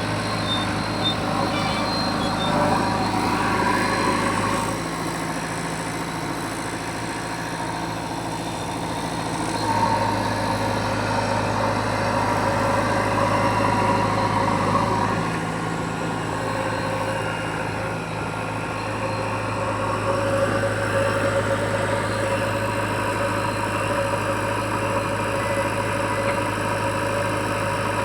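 Heavy diesel engine of working machinery running steadily, its sound swelling louder three times and easing back in between.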